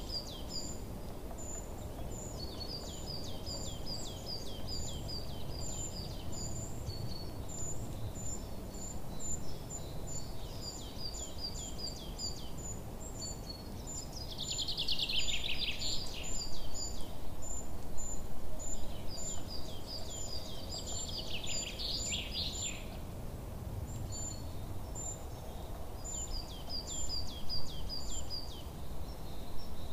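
Birds chirping, with runs of short, high, repeated calls over a steady low background noise. Two louder trilling bursts come in the middle.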